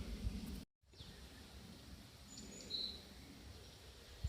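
Quiet outdoor background with a low rumble, cut off by a brief gap of total silence about half a second in; a small bird chirps a few short high notes around the middle.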